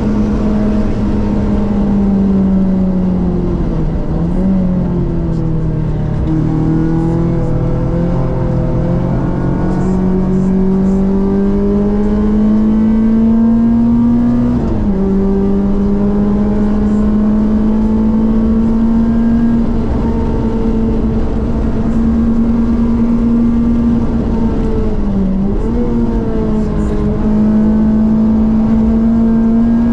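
Renault Clio 197 Cup's 2.0-litre four-cylinder engine pulling under load on track. The revs fall and dip about four seconds in, then climb slowly and drop sharply with a gear change about fifteen seconds in. They dip briefly again near the end.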